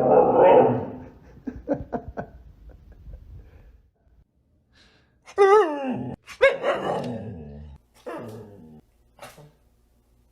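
A dog barking in bursts: loud at the start, a short pause, then a run of barks a little past halfway, with a few fainter ones after.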